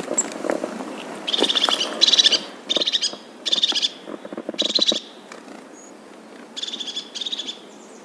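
A bird calling: a series of about seven short, high, rapidly trilled notes, repeated every half second to a second with a pause midway. A lower pulsing call sounds beneath them at times.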